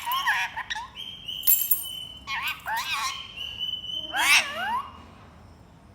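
Indian ringneck parakeets calling: three bursts of squawking, pitch-bending calls with high held whistles between them, fading out for the last second.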